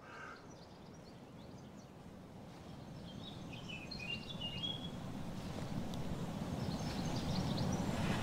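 Birds chirping in short high calls while a low rumble, like an approaching road vehicle, grows steadily louder.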